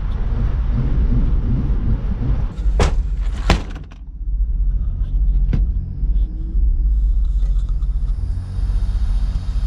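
Honda Accord's 3.0-litre V6 engine running, a steady low sound heard from inside the car. Two sharp knocks come about three seconds in, and the engine briefly drops quieter just after.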